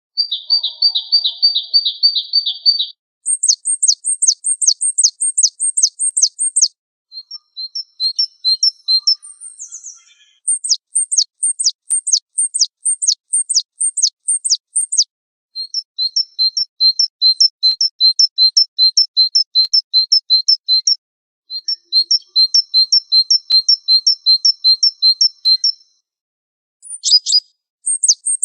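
Recorded songbird song: a fast high trill, then several runs of quick, high, falling whistled notes, about three to four a second, with short silent gaps between the runs.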